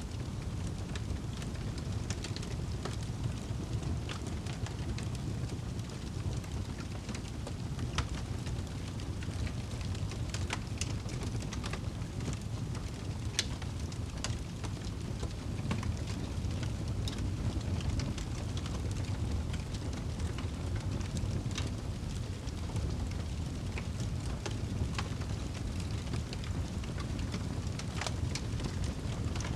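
Fireplace fire crackling: scattered sharp pops and crackles, a few louder ones, over a steady low rumble.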